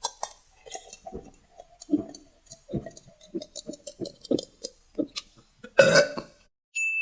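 Close-miked ASMR chewing: a run of soft, wet mouth smacks, about two a second. About six seconds in there is a louder, noisier burst, and a steady high beep starts just before the end.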